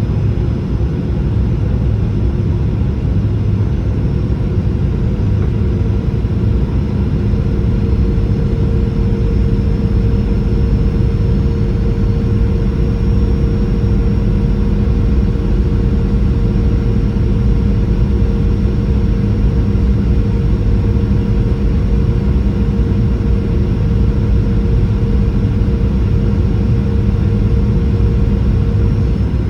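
Boeing 737-800 jet airliner's engines and airflow making a steady, unbroken low drone with a constant hum.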